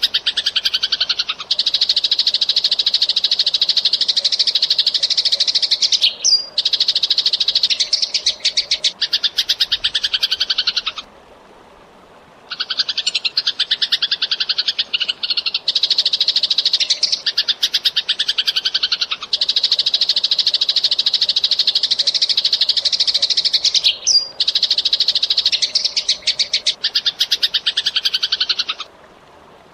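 Eurasian tree sparrows chattering in fast, dense runs of chirps, in stretches of several seconds, with a short break about eleven seconds in and another near the end.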